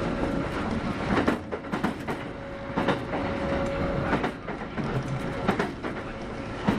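Kintetsu 8810 series electric train running at speed, heard inside the car: a steady rumble with a faint steady tone, and wheels clacking over rail joints several times.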